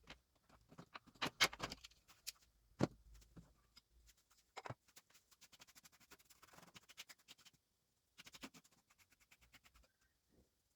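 Irregular clicks, taps and light scraping of plastic keyboard parts being handled and worked on, with a few sharper knocks.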